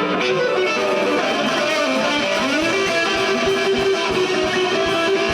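Live blues band playing between sung lines: an electric guitar plays a fill of bent notes, then holds one long note from about halfway, over bass and drums.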